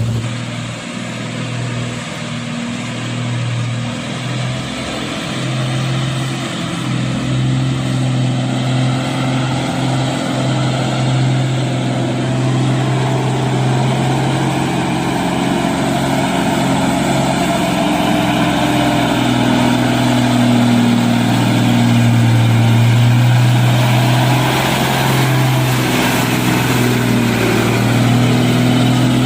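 Truck engine running at steady revs under load, its pitch holding nearly level with small shifts.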